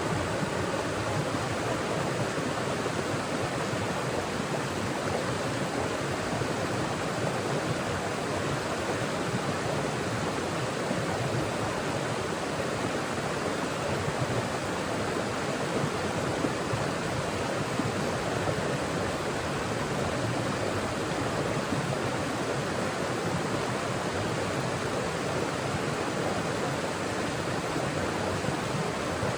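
Mountain forest stream running over rocks: a steady, unbroken rush and babble of flowing water.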